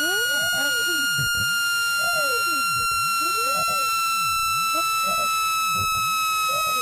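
Generated speaker-cleaning tone: a loud, steady electronic tone with overtones, slowly falling in pitch, under fainter sweeps that repeat about every second and a half. It is played at full volume so that its vibration pushes water out of a phone speaker's grille.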